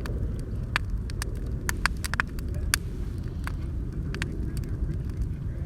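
Wood bonfire crackling, with sharp irregular pops and snaps, over a steady low rumble.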